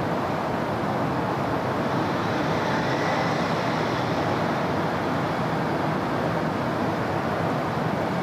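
Steady wash of city road traffic, the blended noise of passing cars with no single vehicle standing out.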